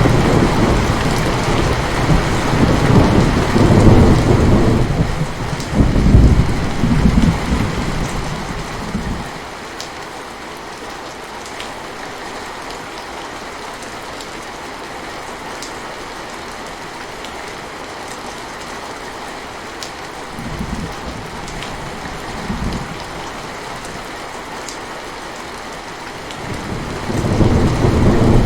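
Steady rain with rolling thunder: a long low rumble for roughly the first nine seconds, two short rumbles about two-thirds of the way through, and another rumble building near the end.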